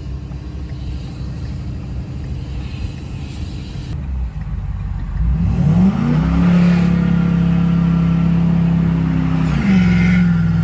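Pickup truck engine at full throttle with a failing transmission. A low rumble, then about five seconds in the revs climb steeply and hold at a high, steady drone while the truck barely moves: the transmission is going out and stuck in what the driver takes for limp mode. The revs dip briefly near the end, then settle again.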